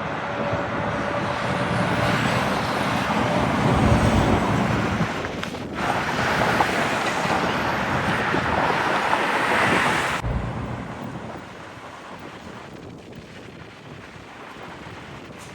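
Semi-trucks passing on the road, a steady rush of tyre and engine noise with a low rumble that peaks about four seconds in. It drops sharply about ten seconds in to quieter traffic noise.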